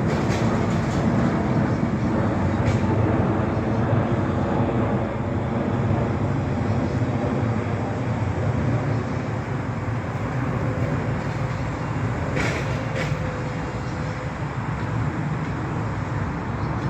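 A large engine running steadily, a low rumble that eases slightly toward the end, with two brief sharp sounds about three-quarters of the way through.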